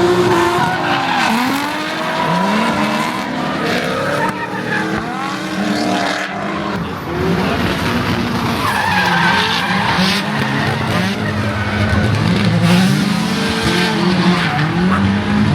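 Drift cars on track, engines revving up and down in repeated sweeps as the throttle is worked, with tyres screeching as they slide.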